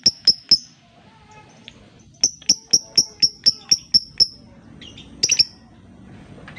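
Lovebird calling in rapid runs of sharp, high chirps, about four a second: one run ending just after the start and another of about nine chirps from about two seconds in, then a short harsh double call about five seconds in.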